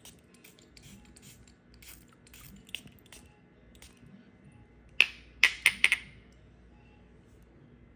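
Light scattered ticks and taps, then a quick run of about five sharp clinks of hard objects a little past the middle, each ringing briefly.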